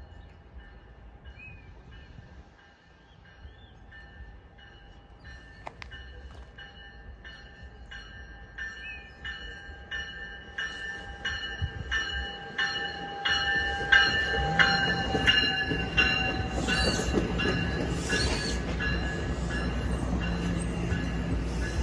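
NJ Transit electric train, an ALP-46 locomotive with Multilevel coaches, approaching and growing steadily louder. Its wheels click regularly over the rail joints under steady high-pitched squealing tones.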